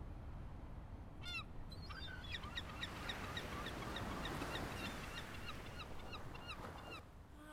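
A bird calling in a quick run of short honking notes, about three a second, over the wash of small waves on a pebble shore.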